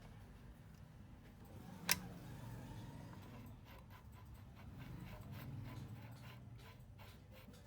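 A single sharp click about two seconds in, over a faint low hum, followed by scattered light ticks and taps.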